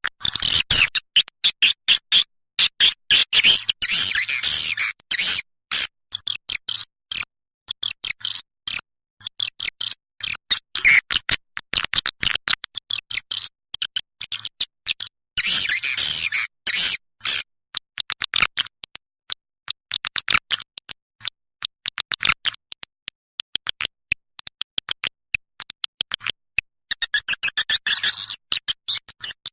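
Swiftlet lure call: rapid high twittering chirps and clicks that swell into dense chattering bursts near the start, in the middle and near the end, with sparser chirps between. It is the kind of call played to draw swiftlets into a nesting house.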